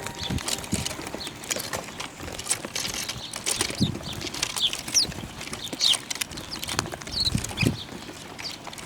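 Small birds giving short high chirps, over a scatter of quick taps and soft knocks.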